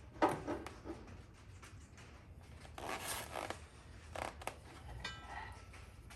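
Hands working on a fuel line and its fittings: a few sharp clicks near the start, a rasping scrape about three seconds in, another shorter one after four seconds, and a short squeak after five seconds.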